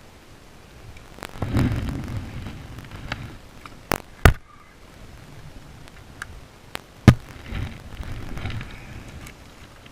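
Handling noise in a kayak: rustling with several sharp knocks and clicks, two of them loud, about four and seven seconds in.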